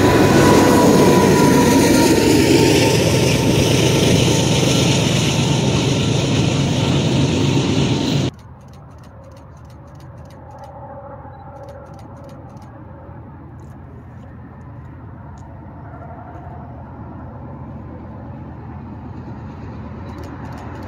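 A Union Pacific freight train passing close by: a diesel locomotive and hopper cars rolling on the rails, with a wheel squeal tone that falls slightly. About eight seconds in it cuts off suddenly to a much quieter low rumble that slowly grows louder as another train approaches in the distance.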